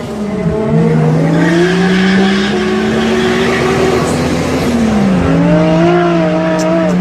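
Toyota Supra's turbocharged straight-six engine running hard under load. The revs drop sharply about half a second in and again about five seconds in, and climb slowly in between.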